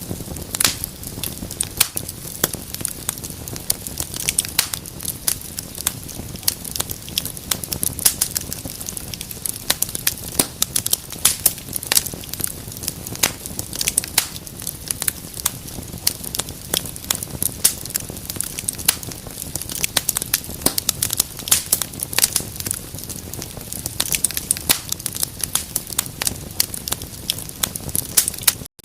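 Fire in a fireplace crackling: a steady low rumble of flames with dense, irregular sharp pops and snaps, cutting out for an instant near the end.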